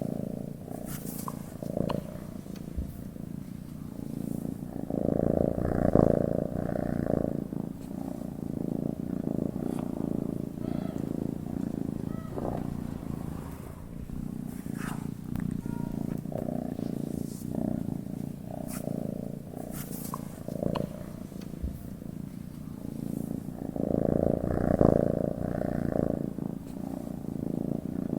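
Domestic cat purring steadily in its sleep, a low, finely pulsing rumble that swells louder about six seconds in and again near the end.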